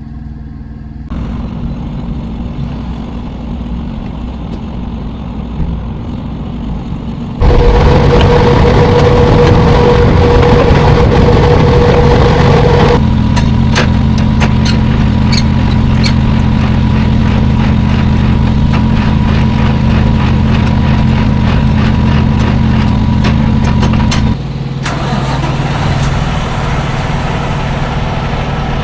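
Semi-truck diesel engine idling steadily, with a loud hissing rush lasting several seconds about a quarter of the way through, then scattered clicks over the idle.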